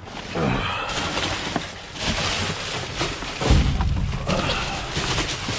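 Plastic garbage bags rustling and being handled, with a heavy low thump about three and a half seconds in as something is set or dropped down.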